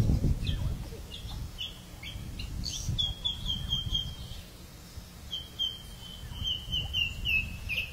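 Small birds chirping: scattered high chirps, then from about three seconds in two runs of rapid repeated chirps, the second longer and falling slightly in pitch, over a faint low rumble.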